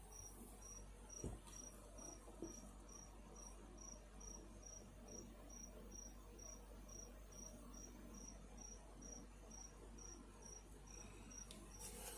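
Faint, steady chirping of a cricket: a single high note repeated evenly, about three or four chirps a second. A couple of soft knocks come in the first few seconds.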